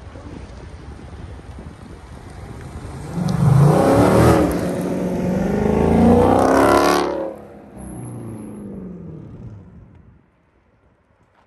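Dodge Scat Pack's 392 HEMI V8 accelerating hard, its pitch climbing twice as it pulls through the gears, then dropping in pitch and fading away as the car pulls off. The sound drops to near silence shortly before the end.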